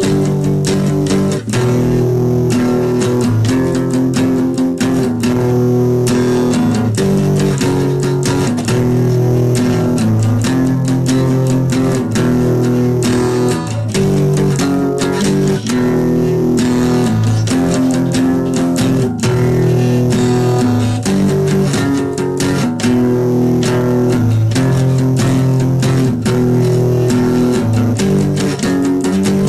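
Music: an instrumental passage of plucked guitar with a bass line, without singing.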